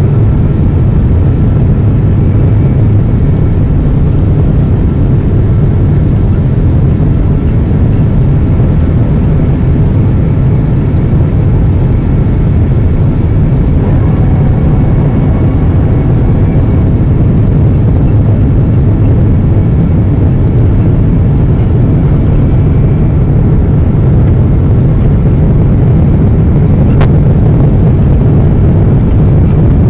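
Steady low rumble of engine and airflow noise inside the cabin of a Boeing 777-200 descending toward landing, with one faint click near the end.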